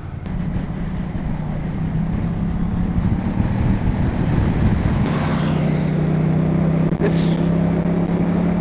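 Ducati Multistrada 1200 S twin-cylinder engine pulling away and accelerating, as heard from the rider's camera, with wind noise growing as speed builds. The note settles into a steady drone, with a brief break about two seconds before the end.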